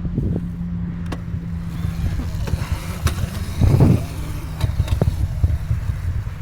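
A vehicle running with a steady low hum and rumble, scattered knocks, and a louder rough burst about three and a half seconds in.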